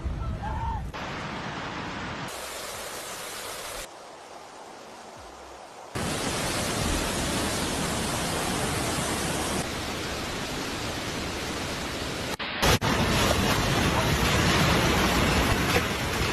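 Steady rushing noise of floodwater, cut together from several clips: the loudness and tone change abruptly at each cut, with a quieter, thinner stretch about four to six seconds in and a brief dropout about twelve and a half seconds in.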